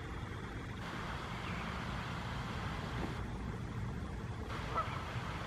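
Steady low outdoor rumble, with a faint short bird call about five seconds in.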